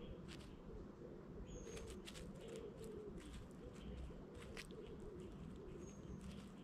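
Birds calling: a low, wavering cooing repeated throughout, with short sharp clicks and chirps scattered over it.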